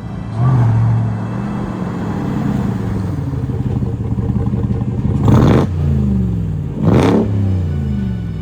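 Ram TRX's supercharged 6.2-litre V8 running through straight pipes with the mufflers cut off, pulling under throttle down the road. Two sharp, loud surges about five and seven seconds in, each followed by a falling engine pitch.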